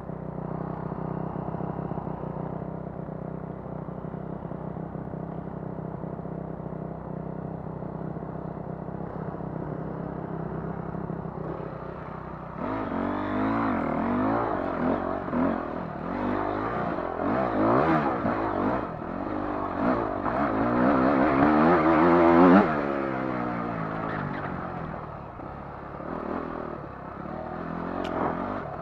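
Dirt bike engine running at a steady speed, then from about halfway through revving hard, its pitch rising and falling again and again, loudest just before it drops back near the end.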